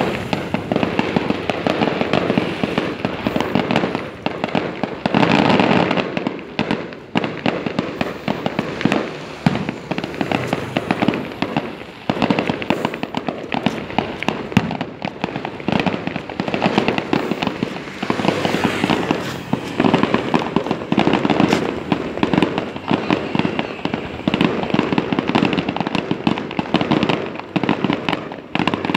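Fireworks going off in a continuous barrage, a dense run of rapid bangs and crackling with no pauses and some louder stretches.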